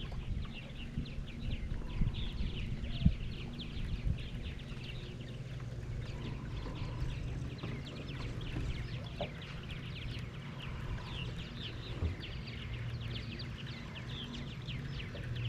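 Birds chirping and calling in a dense, continuous chatter of short high notes, over a faint low steady hum.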